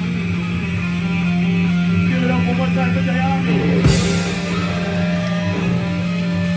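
Heavy metal band playing loud through a club PA, with guitar over a sustained low drone and a sharp hit about four seconds in.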